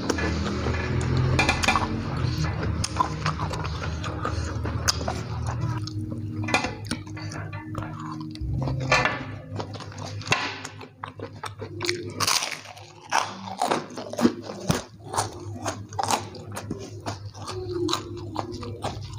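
Close-miked chewing and crunching of raw lettuce and spicy fried instant noodles, with many sharp clicks of biting.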